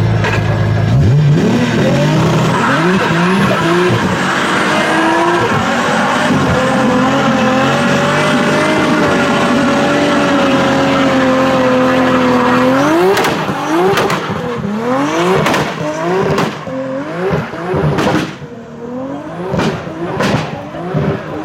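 A car doing a burnout: the engine revs up and is held at high revs for several seconds while the tyres squeal. After that it gives a series of quick blips of the throttle, about one a second, with sharp cracks between them.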